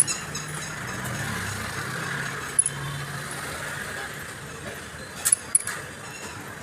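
A few sharp metallic clinks of metal parts, two of them close together near the end, over a steady low hum.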